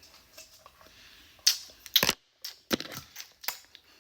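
Four or five sharp crackling, scraping handling noises in the second half, from handling the joint compound and patching tools.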